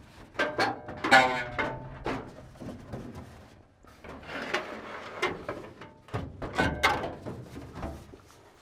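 Aluminium wing flap of a Cessna 172 being handled and manoeuvred, knocking and clattering against the airframe, with a short ringing squeal of metal about a second in.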